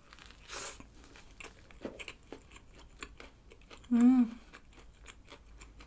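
A bite into a McDonald's crispy fried chicken thigh burger on a brioche bun, a short crunch about half a second in, followed by close-miked chewing with small wet clicks. About four seconds in, a brief hummed 'mm' with the mouth full.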